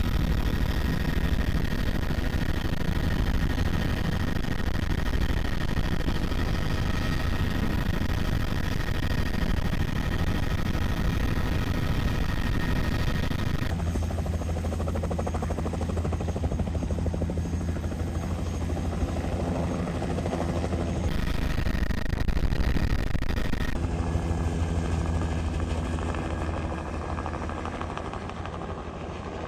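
Helicopter turbine engine and rotor running, heard from inside the cabin: a steady low rotor rumble under a high turbine whine. The tone shifts abruptly a few times partway through.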